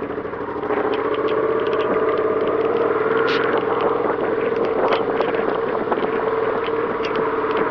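Suzuki SV650's V-twin engine running steadily on the move, a little louder from about a second in, with many short ticks of rain and spray scattered over it.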